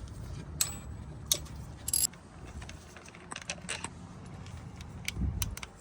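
Hand tools and small metal parts clinking while being handled, a dozen or so sharp clicks spread through, over a steady low hum.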